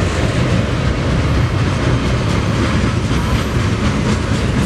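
BNSF double-stack container train's cars rolling past: a steady, loud rumble with the wheels clicking over the rail joints.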